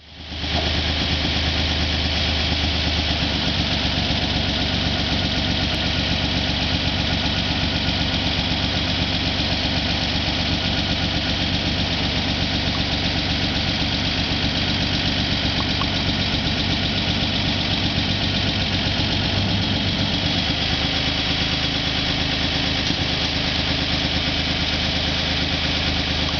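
1952 Chevrolet dump truck's inline-six engine idling steadily. Its low hum changes about three seconds in and again around twenty seconds in.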